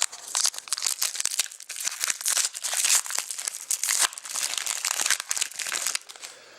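Plastic trading-card pack wrappers crinkling as they are handled and torn open, a dense rapid crackle that dies down near the end.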